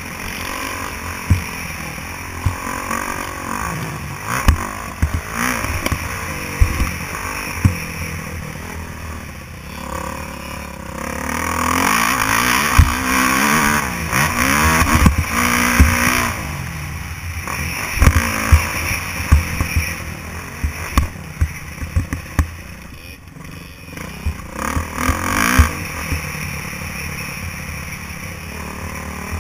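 Motocross dirt bike engine revving up and falling off again and again, louder in stretches, with frequent sharp knocks and thumps.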